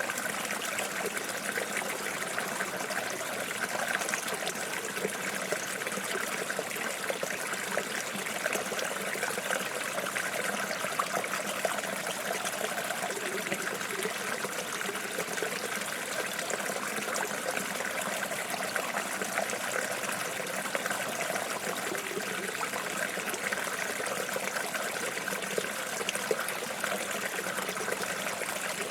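Stream water flowing and trickling steadily, an even babble of small splashes with no pauses.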